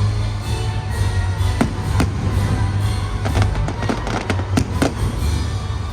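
Aerial fireworks going off: a string of sharp bangs, several a second apart, with crackling near the end, over music with a heavy low beat.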